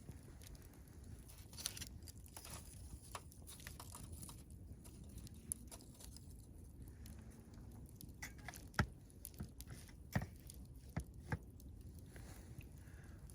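Wood fire crackling, with scattered sharp pops over a low steady background rumble; the loudest pops come about nine and ten seconds in.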